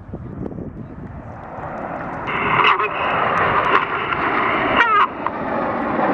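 Aircraft engine noise swelling as a plane passes, with a steady high whine coming in about two seconds in.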